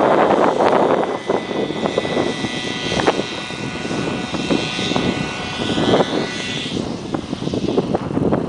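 Shuttle radio-controlled helicopter's engine and rotor whining in flight, the high whine wavering slightly in pitch and fading out about seven seconds in. Strong wind buffets the microphone throughout.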